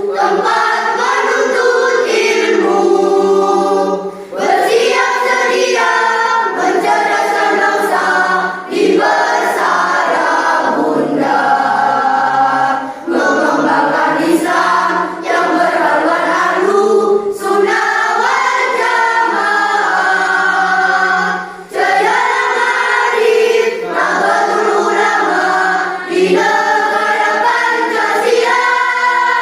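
A school choir singing in unison, long phrases separated by brief breaths every few seconds.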